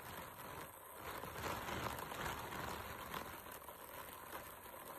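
Rain falling on open water, a steady soft hiss.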